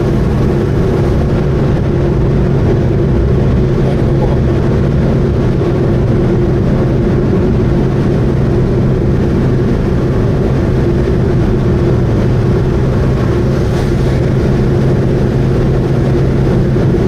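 Subaru Vivio KK3's 660 cc four-cylinder engine and road noise at a steady cruise, a constant drone with no change in pitch.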